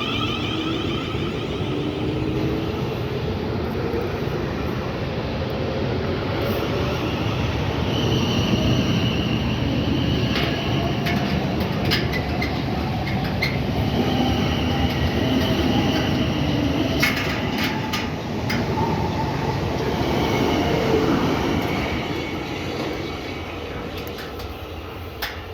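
Electric multiple-unit train running through the station, a dense rumble with wavering whining tones and scattered sharp clicks from the wheels on the track; it fades over the last few seconds as the train moves away.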